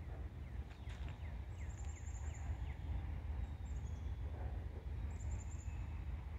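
Birds chirping: a quick run of short falling notes in the first few seconds, plus a few very high, thin trills, over a steady low rumble.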